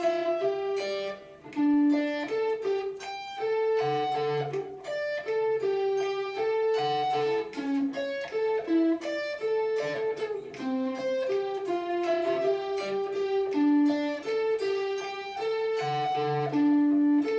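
Electric guitar picking a repeating single-note riff, note by note, in a practice run-through.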